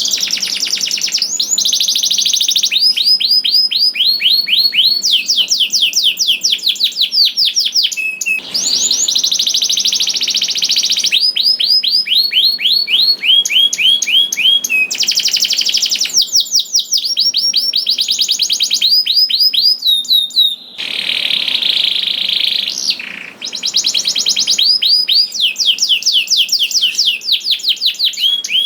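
Canary singing a long, loud song of rapid trills, each a string of quick repeated notes, switching to a new note type every second or two with a couple of brief breaks.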